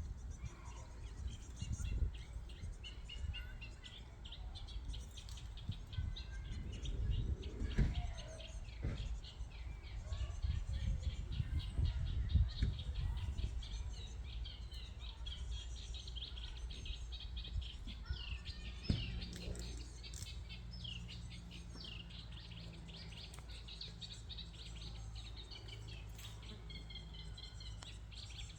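Many small birds chirping and singing at once, in dense overlapping twitters, over a low rumble that is gusty in the first half and steadier later.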